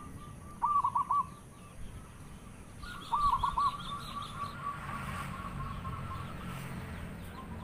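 A bird calling twice in quick runs of four or five notes, about half a second in and again three seconds in, with fainter higher chirps from other birds.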